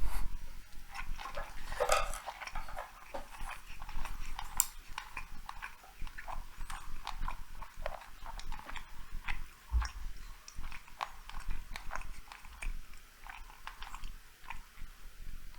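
Close-miked chewing of sushi rolls: a steady run of irregular wet mouth clicks and smacks, a little louder about two seconds in.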